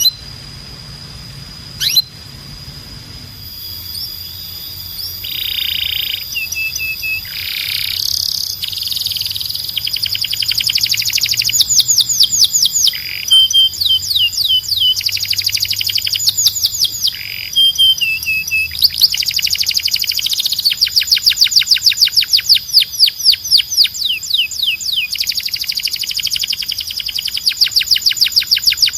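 Domestic canary singing: a single sharp chirp, then a song that builds into long, rapid trills of repeated falling notes, growing louder and denser towards the end, over a steady high held tone.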